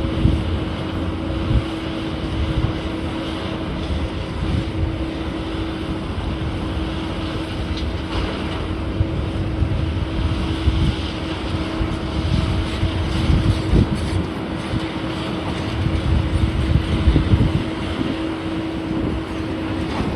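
A machine's engine running steadily with a constant hum, under gusts of wind buffeting the microphone.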